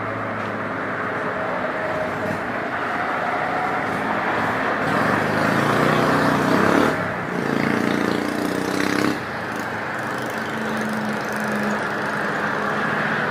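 Road traffic: cars and trucks with engines running pass steadily. The noise swells in the middle and dips briefly twice as vehicles go by.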